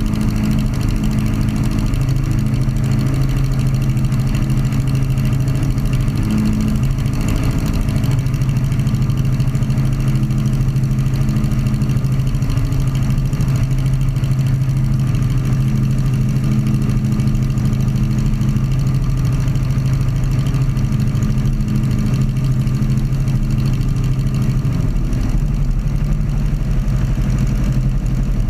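Sonerai's Volkswagen-based air-cooled aircraft engine running steadily at a constant setting during its break-in, a loud, even drone with a slight change in tone near the end.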